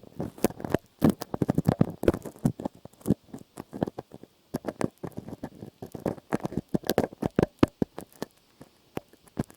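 Close-miked ASMR trigger sounds: dense, irregular clicks and crackles, bunched in quick flurries with short pauses between.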